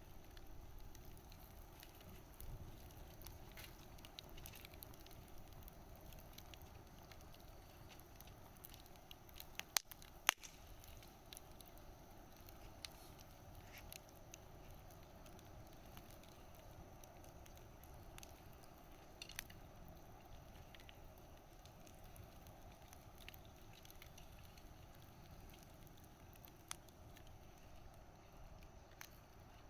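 Wood fire crackling softly, with scattered small pops and two sharper pops about ten seconds in.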